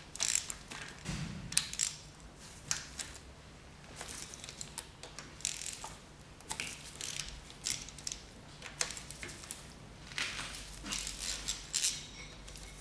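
Ratchet spanner and metal hand tools working on a Volvo 940 rear axle's differential, making irregular metallic clicks and scrapes.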